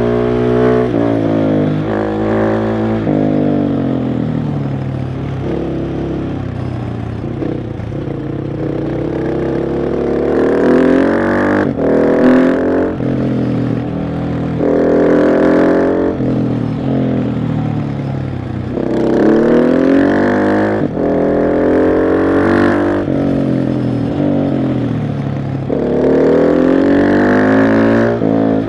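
KTM 690 SMC R's single-cylinder engine under way, revving up through the gears in repeated rising pulls, with quick drops in pitch at each shift and falling revs as the throttle closes. It is slowest and lowest for a few seconds near the start, then pulls hard again several times through the rest.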